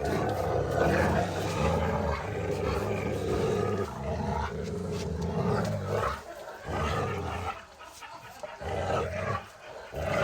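Boerboel mastiffs growling low and hard in rough play: an unbroken growl for about six seconds, then shorter bursts of growling with brief pauses between them.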